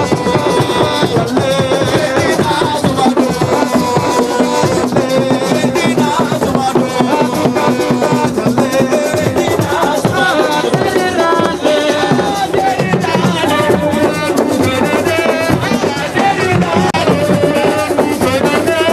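Lively percussion music: drums beating continuously under voices singing, with shaken rattles.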